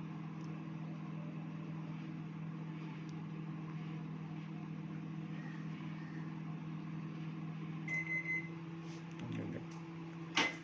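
Godrej microwave oven running with a steady hum on a test heat after its repair. About eight seconds in it gives three short high beeps as the cycle ends, and the hum changes; a sharp click follows near the end.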